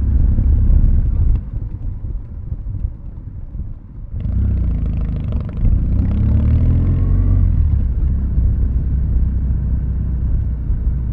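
Kawasaki W650's air-cooled parallel-twin engine running at low revs through Nasert Trad aftermarket mufflers, mostly coasting downhill with the throttle closed. It drops quieter for a couple of seconds. About four seconds in it picks up again, and the revs rise for a few seconds before settling back to a steady low run.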